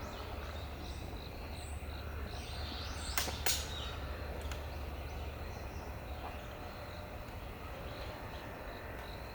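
Outdoor ambience with a steady low rumble and faint, scattered high bird chirps. Two sharp clicks about a third of a second apart, a little over three seconds in, are the loudest sounds.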